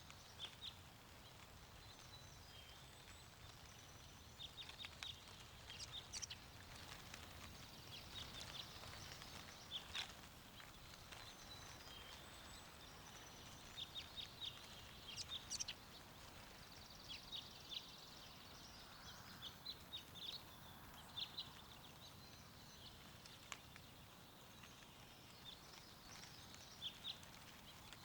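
Small birds chirping in short, scattered calls, in clusters every few seconds, over a soft steady rush of wind.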